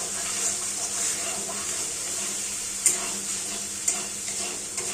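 Spiced masala paste with chopped tomato sizzling steadily in hot oil in an aluminium kadai as it is stirred and fried down with a spatula, with a few sharp clicks of the spatula against the pan in the second half. The masala is at the frying-down stage, where the oil separates out.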